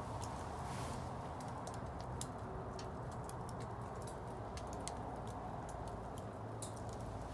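Wood bonfire crackling: irregular sharp pops and snaps over a steady low rush of burning.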